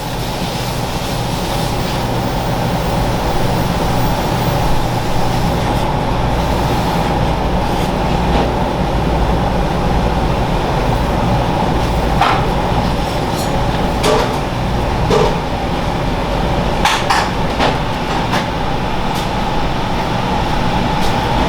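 Steady mechanical hum and rush of machinery, with a few sharp clicks and clinks around the middle and toward the end.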